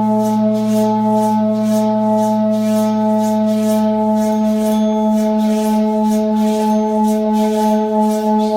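Large sacred temple gong humming with a steady, sustained multi-tone drone. A soft swishing repeats about two to three times a second over it, as when the gong's boss is rubbed by hand to make it sing.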